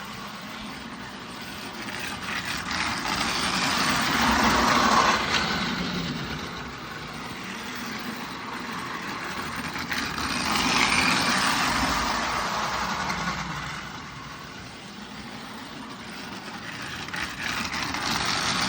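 Marx 490 0-4-0 toy train engine running with a short freight train on O-scale track: a motor whirr and wheel rumble that swells and fades about every six seconds as the train laps the small loop.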